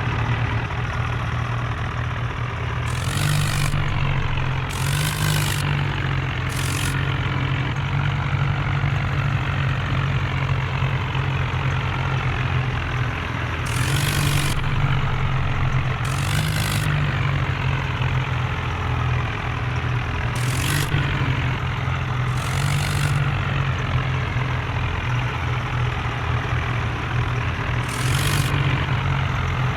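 Diesel tractor engines running steadily with a deep rumble, broken about eight times by short bursts of hissing noise.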